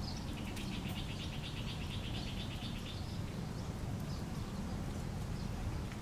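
A bird's rapid trill: a fast, even run of high chirps lasting about three seconds, with a few single chirps later, over a steady low outdoor rumble.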